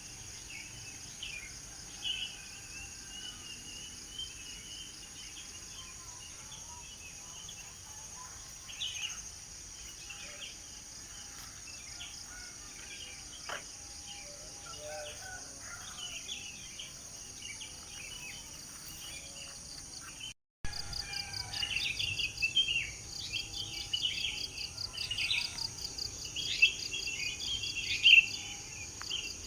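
Several birds chirping and singing over a steady, high, pulsing insect trill. About two-thirds of the way in the sound drops out for an instant, then comes back louder with busier chirping.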